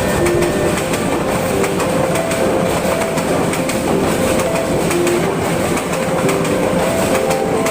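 Train running along the track: a steady rumble with wheels clicking over rail joints.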